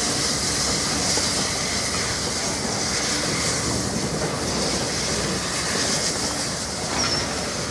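Steam-hauled passenger train behind LNER A1 Pacific 60163 Tornado rolling slowly past: a steady rumble of wheels on the rails, with a brief high wheel squeal about seven seconds in.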